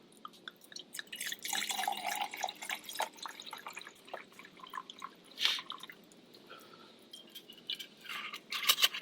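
Sake being poured from its bottle into a warming vessel for kanzake, a liquid pour about a second in lasting a couple of seconds, followed by light clinks and knocks of the vessel near the end.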